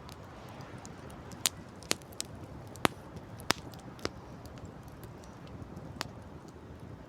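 Wood campfire crackling: about seven sharp pops and snaps, clustered in the middle, over a steady low rushing noise.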